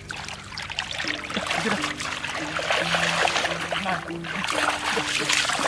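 Floodwater splashing and trickling as a continuous stream of small splashes, with a simple melody of held notes underneath.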